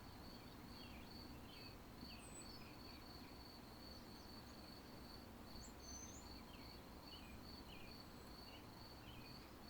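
Faint cricket chirping, a steady high chirp repeating about twice a second, with a few scattered faint bird chirps.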